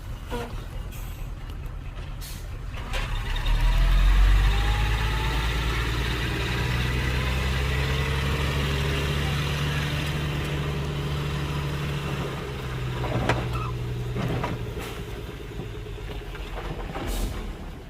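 Heavy diesel engine of a bulldozer or dump truck working, rising in level about four seconds in and running steadily under load before easing off near the end, with a few short sharp sounds.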